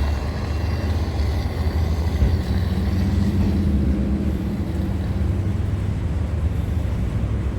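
Steady low rumble of an idling vehicle engine, with a faint hum joining in about three seconds in.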